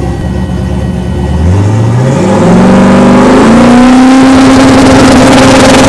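Drag-racing street truck's engine on the starting line: it runs low, then revs up sharply about a second and a half in and holds at one steady high rpm, ready to launch.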